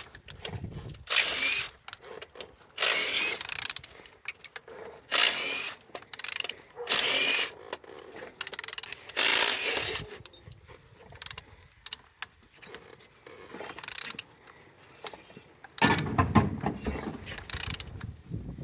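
A Renault K9K 1.5 dCi diesel engine being turned over by hand with a ratchet, in repeated short ratcheting strokes with clicks between them. The engine turns freely and is not seized.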